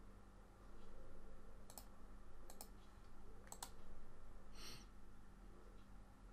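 Computer mouse clicking: three quick double clicks spaced about a second apart, then a short scratchy burst, over a steady low electrical hum.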